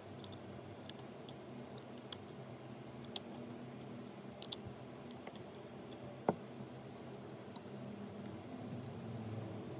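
Small, irregular clicks and taps of tools handling the parts of an iPhone 12 being repaired, over a steady low hum.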